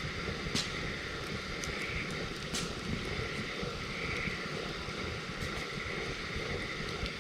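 Campfire of burning wood crackling, with two sharp pops, the first about half a second in and the second about two and a half seconds in, and fainter ticks over a steady low rumble.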